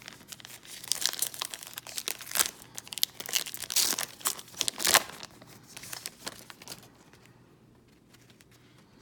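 Trading card pack wrapper being torn open and crinkled, a run of dense crackling that is loudest about four to five seconds in and dies away near the end.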